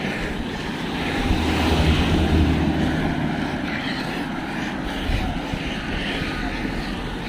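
A motor vehicle's engine droning steadily over road noise, loudest about two seconds in.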